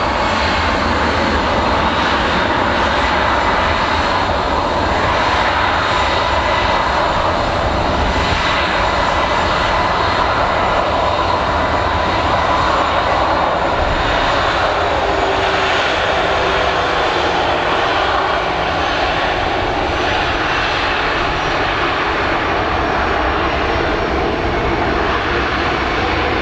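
Airliner engines running steadily at ground idle, a continuous rumble with a steady whine on top.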